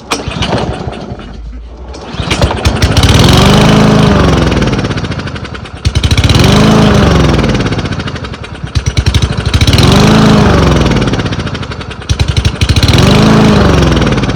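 Troy-Bilt walk-behind mower's small engine picks up about two seconds in and surges: it revs up and falls back four times, roughly every three seconds. This surging is the sign of an engine starving for fuel while the governor fights it, a fuel or carburetor fault.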